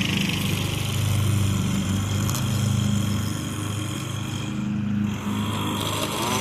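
Craftsman riding lawn mower engine running steadily up close at low, even revs, a deep hum.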